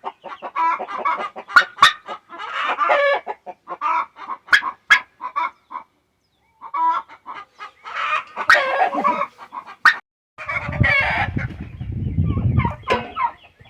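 Chickens clucking and calling, many short calls one after another, with a few sharp clicks among them. There is a brief break to silence a little past the middle, and a low rumble under the calls near the end.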